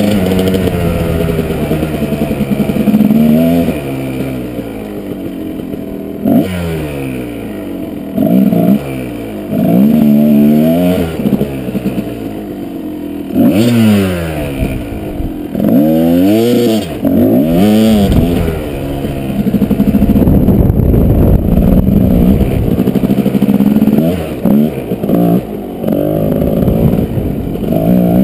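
Kawasaki KDX220 dirt bike's two-stroke single-cylinder engine revving up and dropping back over and over while being ridden, its pitch climbing and falling every second or two.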